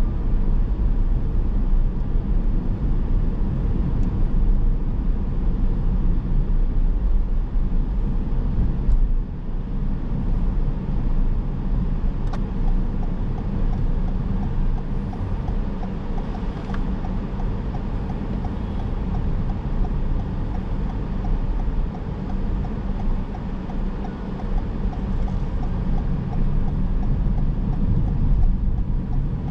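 Car driving along: steady road and tyre noise with a low engine rumble, and a couple of faint clicks.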